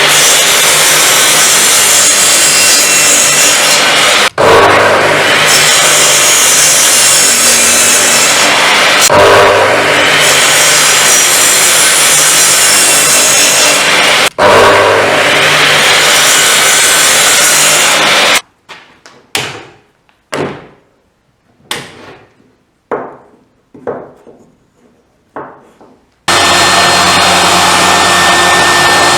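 Table saw running and cutting wood, a loud steady whine over a low motor hum, with brief breaks as if between cuts. Around the middle the saw sound stops abruptly and about ten sharp knocks follow, wood being handled or set down. Then the saw running resumes.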